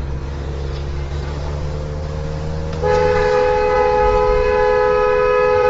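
A vehicle horn held in one long blast of about three seconds, sounding two close notes together, starting about three seconds in over the low hum of engine and road noise.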